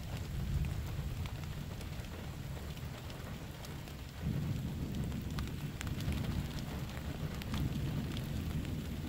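Steady rain falling, with scattered single drop ticks over a low rumble that grows louder about four seconds in.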